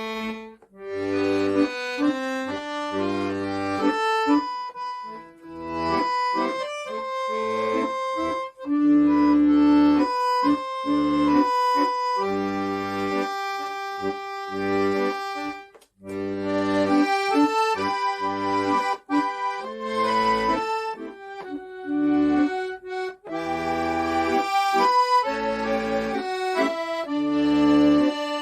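Accordion playing a Korean trot melody in sustained reedy notes, with short bass-and-chord notes beneath it and brief breaks between phrases.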